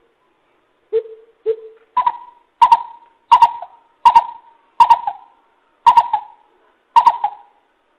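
Coucal calling: a series of hollow hoots, two quieter low notes followed by seven louder, higher notes spaced a little under a second apart.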